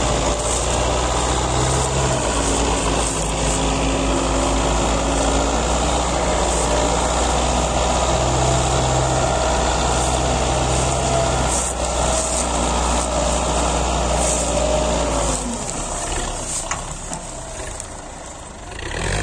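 Belarus 510 tractor's four-cylinder diesel engine running steadily while hauling a sugarcane trailer. About three-quarters of the way in the engine sound drops away and grows quieter, with a few scattered clicks.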